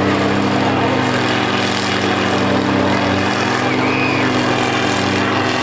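Engines of derby combine harvesters running loudly and steadily.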